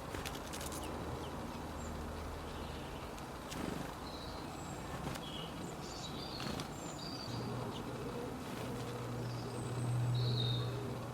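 Small birds chirping outdoors: scattered short, high chirps over a steady background hiss. A low, steady buzz swells toward the end.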